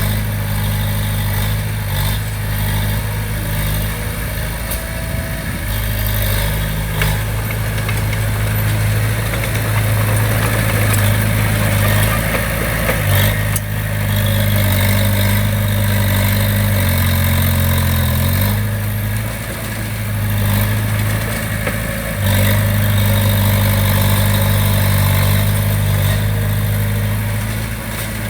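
Diesel engine of heavy construction equipment running steadily under light load, its note shifting briefly in the second half, with a few sharp clanks.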